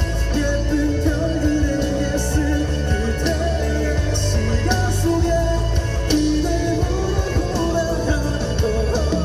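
Live rock band (drums, bass guitar, electric guitars and keyboard) playing a song, with a strong steady bass line and cymbal crashes now and then.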